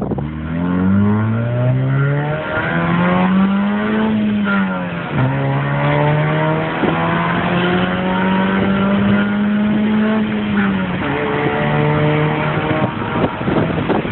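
Car engine running through a newly installed exhaust system, accelerating through the gears. The pitch rises and drops sharply at a shift near the start and again about five seconds in, then holds a steady pull with another drop near eleven seconds.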